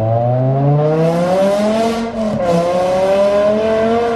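Straight-piped BMW M5 with the S85 V10, resonators deleted, pulling hard under acceleration, its pitch climbing steadily. About two seconds in it breaks and drops for a gear change, then climbs again.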